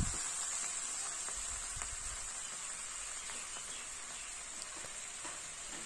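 Onion-tomato masala sizzling in mustard oil in a kadai just after a splash of water was added to cook it down: a steady sizzling hiss with faint crackles that slowly quietens as the water boils off.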